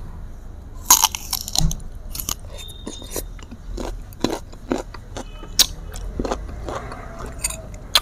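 Biting into and chewing a slice of raw green mango: a loud crisp bite about a second in, then repeated irregular crunches as it is chewed.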